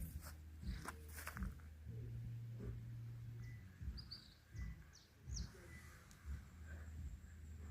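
Outdoor ambience with a low rumble of wind on the microphone, scattered handling knocks, and a few short bird chirps about four to five and a half seconds in.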